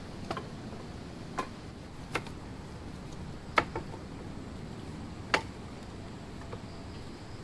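About seven short, sharp knocks at irregular intervals a second or two apart, the two loudest a little past the middle, over a faint steady hiss.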